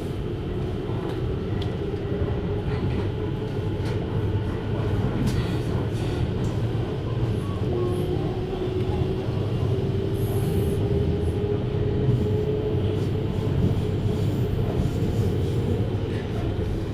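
JR Hokkaido 733 series electric train running, heard from inside a passenger car: a steady rumble of wheels on rail. A thin motor whine rises slowly twice.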